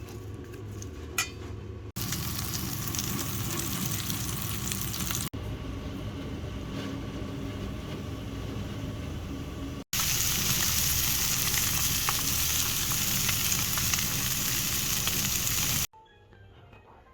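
Food sizzling in a hot frying pan, heard as a steady hiss in several short shots that cut in and out abruptly; the loudest stretch runs from about ten seconds in, and it drops away sharply near the end.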